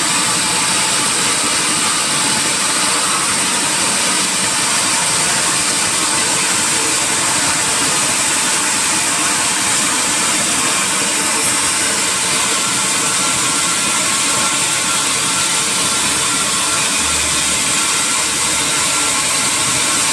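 Sawmill saw running steadily, a loud even machine noise with a strong high hiss and no breaks.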